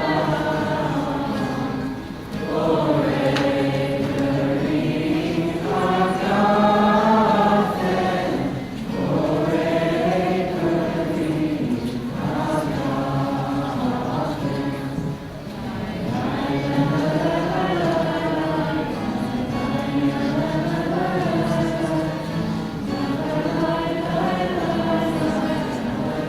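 A group of voices singing together in long, slow phrases, with short breaks for breath about 2, 8 and 15 seconds in.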